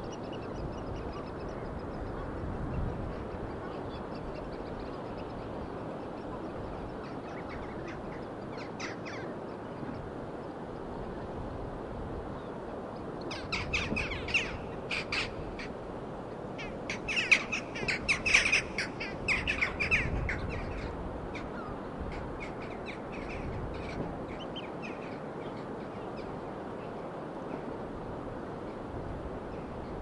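Birds calling in two flurries of rapid, repeated calls around the middle, with a few fainter calls before and after, over a steady rushing background.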